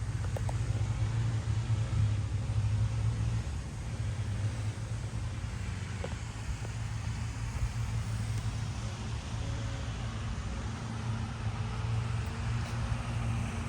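Car engine running steadily at idle, a low even hum with no change in speed.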